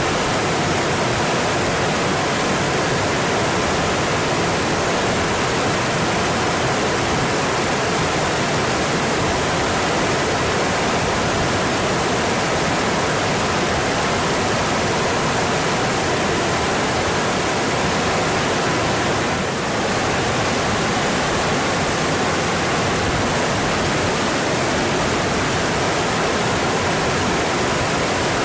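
Mountain stream water running, a steady even rush.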